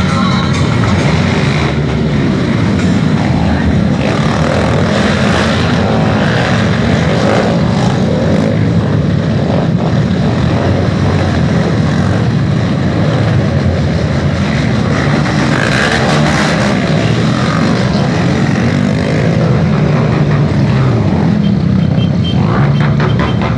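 Motorcycle engines running loudly and continuously.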